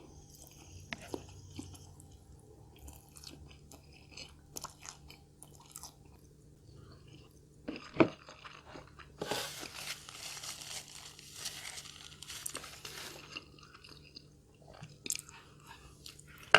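Close-miked chewing and crunching of food, with scattered small clicks and a stretch of denser, louder crunching from about nine to thirteen seconds in.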